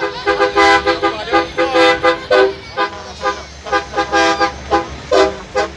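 A truck's air horn sounding a rapid string of short blasts, each a chord of tones, with the pitch shifting from blast to blast like a tune played on a multi-note horn.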